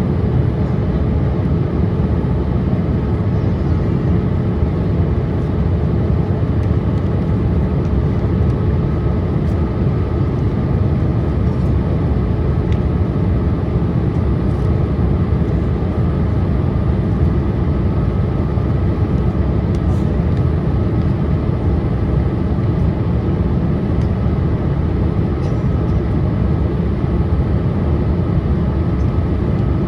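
Steady cabin noise inside a Boeing 787-8 Dreamliner on its approach: a constant low rush of airflow and engine hum, with a faint steady tone on top.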